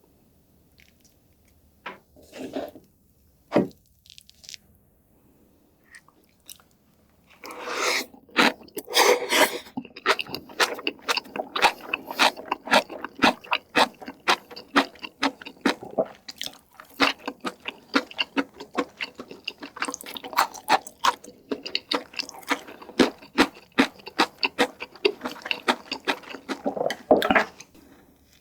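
Close-miked chewing with crisp crunching: a few scattered mouth sounds at first, then from about seven seconds in a dense, steady run of crunching chews.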